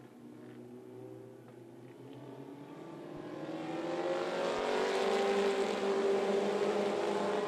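Race car engines on a dirt oval, faint at first, then growing much louder from about halfway as the cars come closer and run past.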